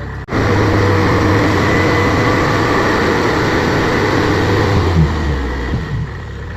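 Kubota DC70 Plus combine harvester's diesel engine running hard at high revs, with a steady drone. Near the end the revs drop and the engine eases back.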